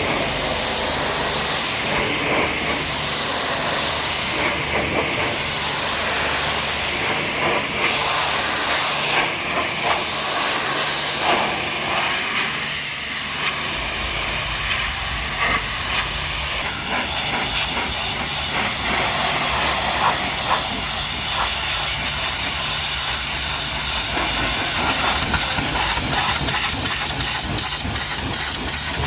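High-pressure washer jet spraying water onto a muddy truck, a steady loud hiss with a low steady hum underneath.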